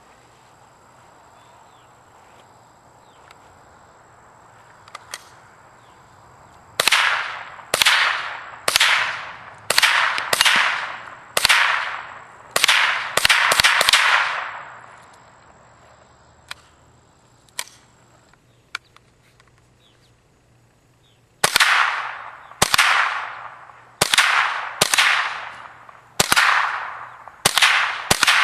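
Ruger 10/22 .22 rifle in an M1 carbine conversion stock firing semi-automatic at steel targets: a quick string of about ten shots, a pause of several seconds with a few faint clicks, then another rapid string of shots.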